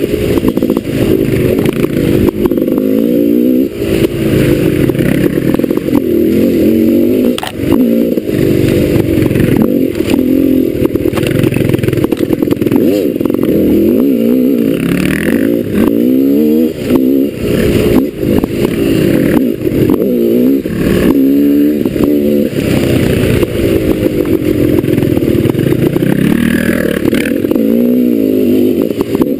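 Trail motorcycle engine repeatedly revving up and easing off as it is ridden along a narrow track, with frequent knocks and clatter from the bike over rough ground.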